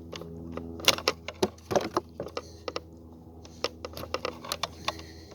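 Irregular sharp clicks and taps of metal hand tools being handled on a chainsaw, with the loudest few about a second in and just before two seconds in.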